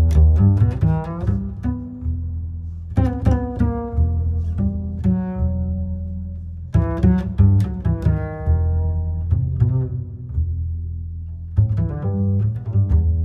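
Slow, relaxing guitar music: groups of plucked notes every few seconds, each left to ring out and fade, over a deep, sustained bass.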